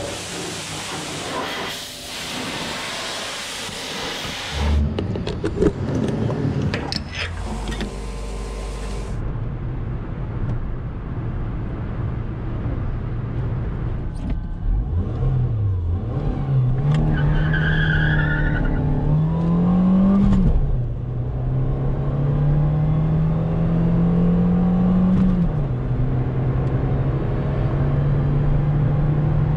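A rushing noise for the first several seconds, then the Ford Fusion's 1.4-litre 16-valve four-cylinder petrol engine pulling under load. Its pitch climbs and drops back twice, at upshifts, then holds steady.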